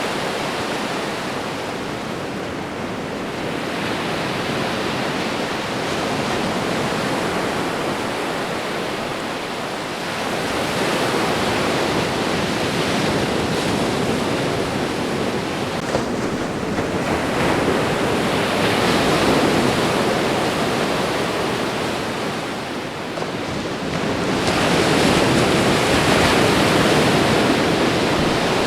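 Ocean surf washing onto a shore: a continuous rush of water that swells and eases as each wave comes in, about every six or seven seconds.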